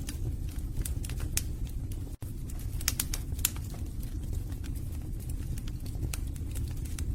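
Wood fire in a fireplace: burning logs crackling and popping in irregular sharp snaps over a low, steady rumble of the flames. The sound cuts out for an instant about two seconds in.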